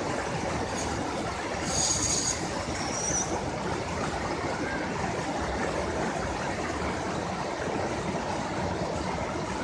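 Steady rushing roar of the Grojogan Sewu waterfall. About two seconds in, a brief high-pitched squeal or chirp rises over it.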